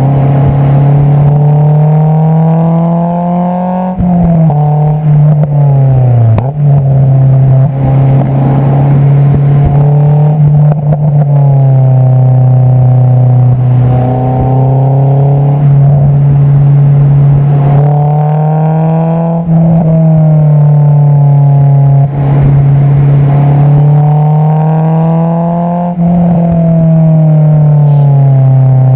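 Honda S2000 (AP2) four-cylinder engine heard from its Invidia Q300 exhaust while driving. The note climbs and falls with throttle through the gears, with quick pitch drops about four and six seconds in.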